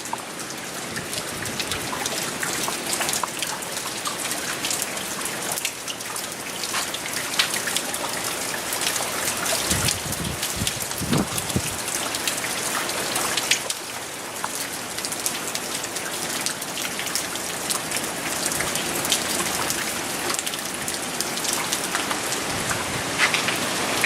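Heavy hurricane rain falling steadily, with many sharp individual drop hits close by and a couple of brief low thuds about ten seconds in.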